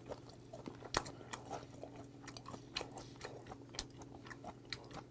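Close-miked chewing of raw yellowtail sashimi: soft wet mouth clicks at irregular intervals, with a sharper click about a second in, over a low steady hum.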